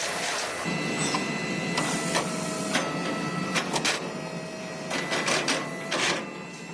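Factory machinery running, with repeated sharp metallic clicks and knocks over a steady mechanical noise and a faint high steady tone.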